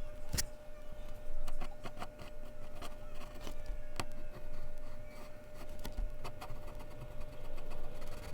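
Mechanical pencil drawing on Bristol paper: an irregular run of short scratchy strokes and taps of the lead on the paper, over a faint steady hum.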